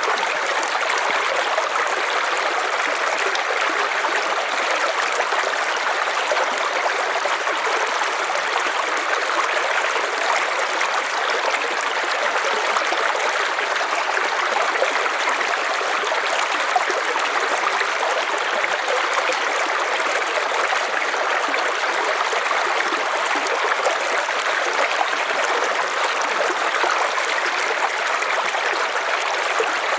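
River water flowing steadily, a continuous rushing and trickling with no breaks.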